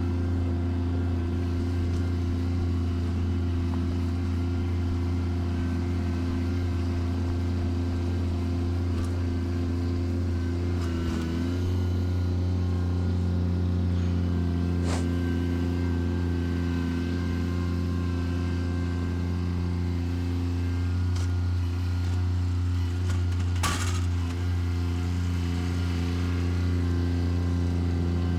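Bobcat tractor's engine running steadily under load, its pitch shifting slightly about twelve seconds in. Two sharp knocks sound over it, the louder one near the end.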